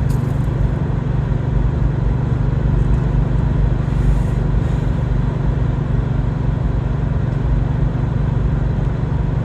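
Car engine and road rumble heard from inside the cabin, a steady low drone with no change in pitch.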